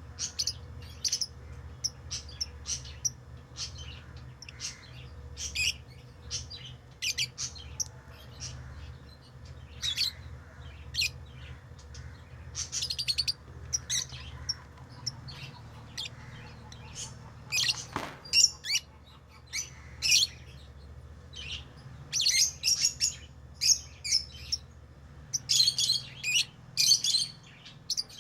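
Pet lovebirds chirping: many short, high chirps in quick runs, growing busier over the last few seconds, over a steady low hum. A single sharp click comes about two-thirds of the way through.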